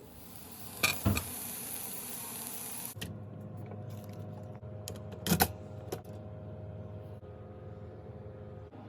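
Kitchen handling sounds: a few clicks and clatter with a brief hiss, then a steady electric hum starting about three seconds in, with sharp clatter partway through.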